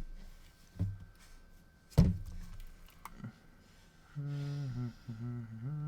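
A few knocks and clunks as a PS4 motherboard is handled and turned over on the bench, the loudest about two seconds in. Then a man hums in two low, steady stretches.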